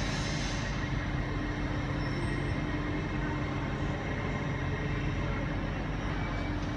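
Steady rumble and hum of an LNER Azuma train pulling slowly out of a station, with an even, unchanging hum throughout.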